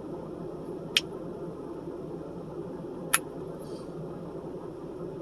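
Two sharp mouth clicks while eating fried fish sticks, about a second in and again about three seconds in, over a steady background hiss.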